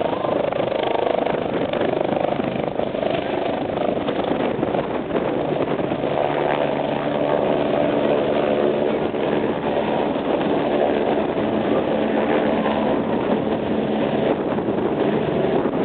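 MBB/Kawasaki BK 117 rescue helicopter running loudly and steadily, its turbine and rotor noise with a set of steady engine tones that stand out more clearly about six seconds in.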